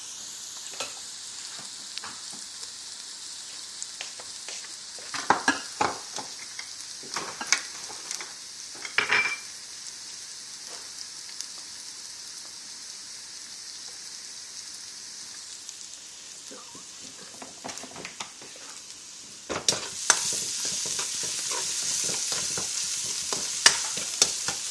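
Minced shallots, garlic and makrut lime leaves sizzling in hot oil in a wok, a steady high hiss with a few scattered clicks. About twenty seconds in the sizzle grows louder as a spatula stirs the aromatics around the pan.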